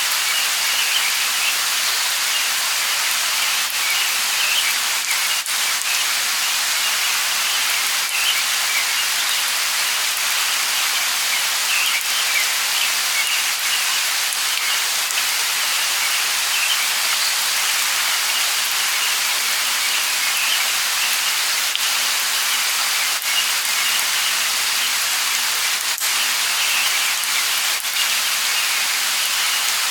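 Light rain falling steadily as an even patter, with small high bird chirps scattered through it.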